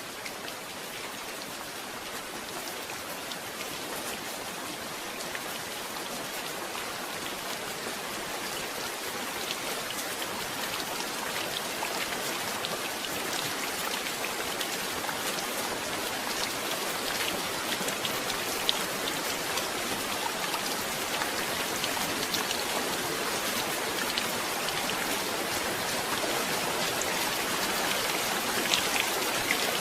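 Steady rain falling, with many separate drops ticking on a surface. It grows gradually heavier and louder.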